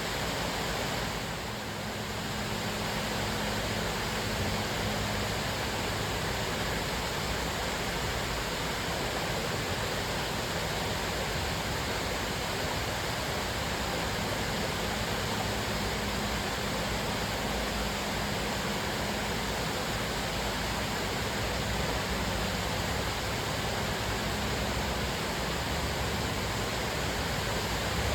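Cascading waterfall: a steady rush of falling water.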